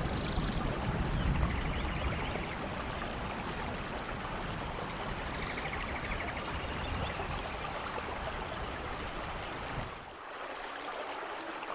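Steady rain, an even hiss of water, with faint high chirps here and there. The low rumble underneath drops away about ten seconds in.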